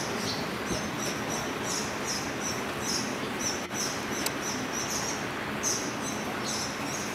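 Small birds chirping, short high chirps about twice a second, over a steady background hiss.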